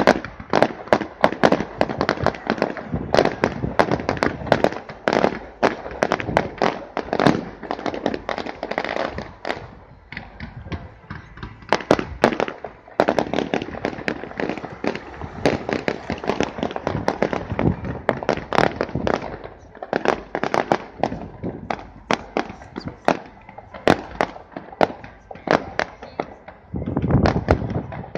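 Fireworks display: many aerial shells bursting in rapid, overlapping bangs and crackles, with brief lulls about ten seconds in and again a little past twenty seconds.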